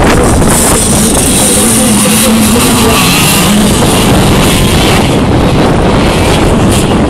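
Motocross motorcycle engines running loud and distorted, one rising and falling in pitch as it revs midway through.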